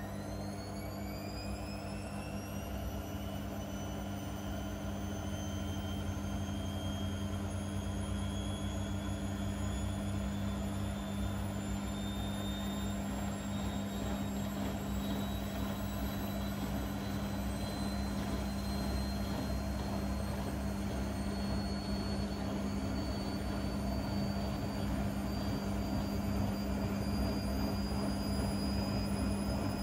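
Blomberg Granat 3200 washing machine spinning up: the motor's whine climbs slowly in pitch over a steady low hum as the drum gathers speed, growing slightly louder.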